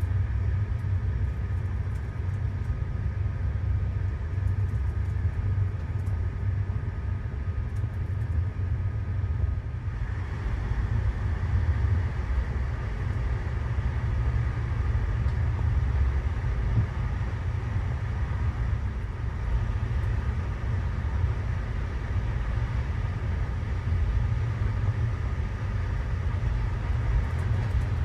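Passenger train running along the line: a steady low rumble, with a higher hiss joining about ten seconds in.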